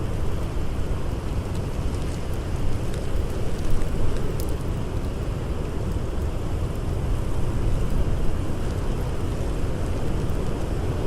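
Blizzard wind blowing steadily with a deep rumble, with a few sharp crackles from a campfire scattered through.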